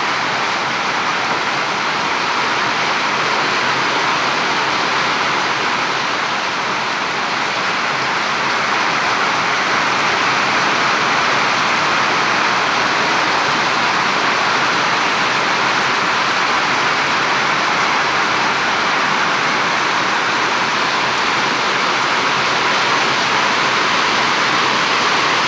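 Heavy rain coming down hard, a loud steady hiss of water that grows a little louder about nine seconds in.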